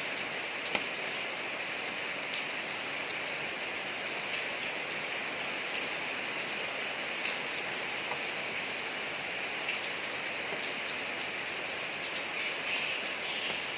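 Steady rain falling on a street: a constant hiss, with scattered drops ticking through it.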